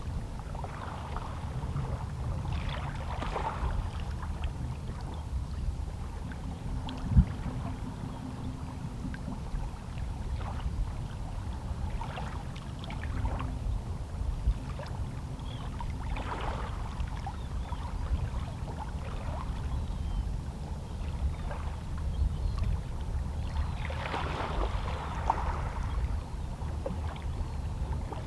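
Calm sea waves lapping against shoreline rocks: soft splashing washes every few seconds over a steady low rumble of the water. A single sharp low thump comes about seven seconds in.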